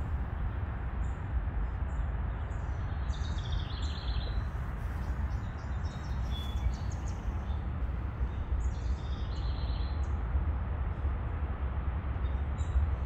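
Birds chirping in short, high calls that recur every few seconds over a steady low rumble of outdoor background noise.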